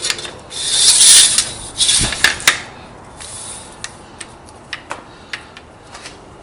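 Metal parts being handled while fitting a lathe DRO scale bracket: two loud scraping, rubbing bursts in the first few seconds, then scattered light clicks and taps.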